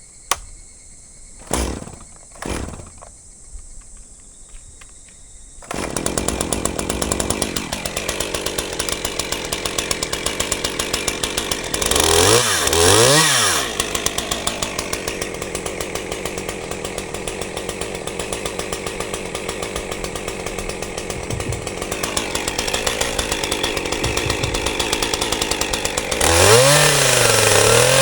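Chainsaw engine comes in abruptly about six seconds in and runs with a fast, even firing rhythm. The saw is revved up and down briefly around the middle and revved harder near the end, for bucking logs into firewood rounds. Before the saw, a few sharp knocks.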